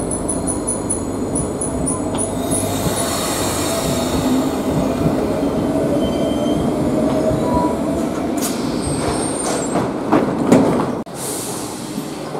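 Electric Cercanías commuter train running through the station: steady rumble with a motor whine that rises slowly in pitch, and fast high beeping in the first couple of seconds. Near the end come sharp clicks and a louder burst of wheel squeal, then the sound drops suddenly.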